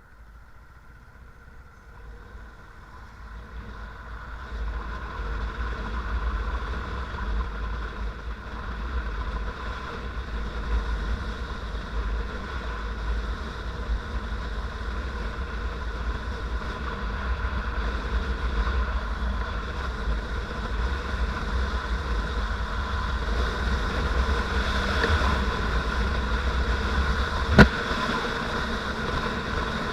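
Motorcycle engine running while riding, with a deep wind rumble on the microphone. It grows louder over the first few seconds and then holds steady, with a single sharp click near the end.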